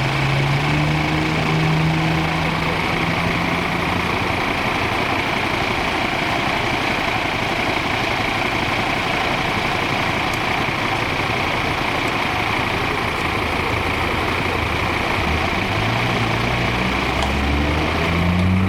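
Steady motor-vehicle noise, engines running with a constant hiss, as at a roadside; near the end an engine rises in pitch as a vehicle speeds up.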